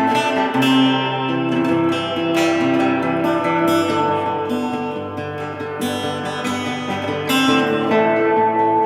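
Acoustic guitar playing a melody over a bass line, notes plucked and left ringing.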